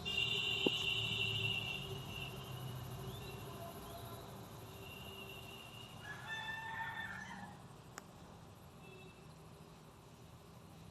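Chickens calling: a loud high call at the start, and a second long call about six seconds in.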